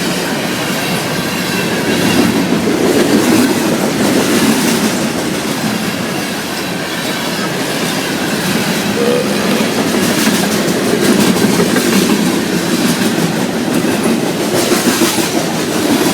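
Train rolling past on the tracks: a loud, steady rumble of wheels with the clickety-clack of wheels running over rail joints.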